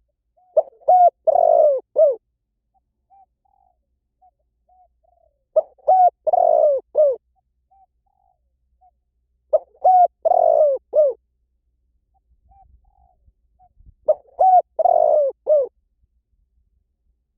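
Spotted dove cooing its call, a phrase of a few low notes, four times at about four-second intervals, with faint short notes between the phrases.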